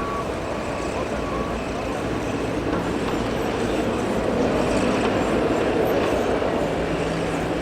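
Steady broad engine noise of a landing jet airliner, growing a little louder about halfway through.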